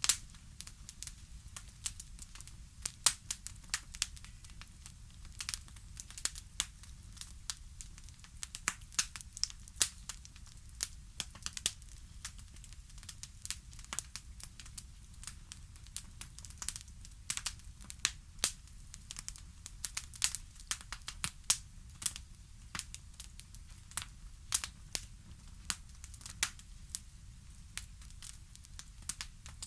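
Wood fire crackling in a fireplace: irregular sharp pops and snaps, several loud ones among many small ticks, over a low steady rumble.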